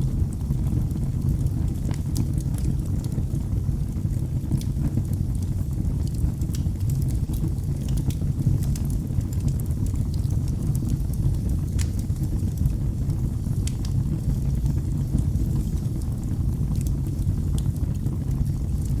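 Wood fire burning in a fireplace: a steady low rumble of the flames with scattered, irregular crackles and pops of the burning logs.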